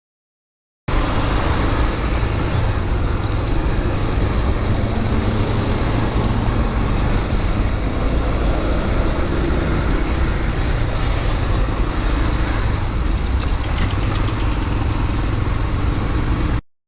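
Motorcycle on the move: steady engine and road-wind noise. It starts abruptly about a second in and cuts off suddenly near the end.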